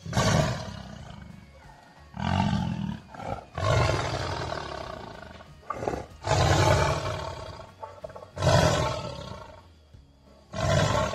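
Tiger roaring and snarling in a series of about six calls, each starting sharply and fading away.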